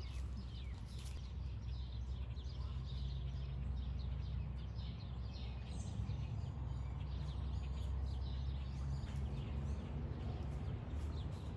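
Small birds chirping and twittering throughout, many short high calls, over a steady low rumble.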